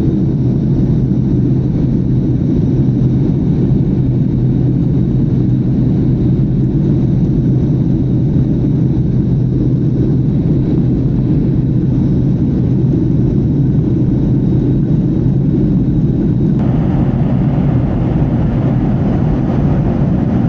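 Steady low roar of a Southwest Airlines Boeing 737 climbing after takeoff, engine and air noise heard from inside the cabin. About three-quarters of the way through, the sound abruptly turns brighter and hissier.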